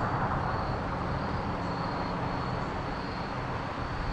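Steady rushing of flowing creek water, an even hiss with no distinct events, and a faint thin high tone above it.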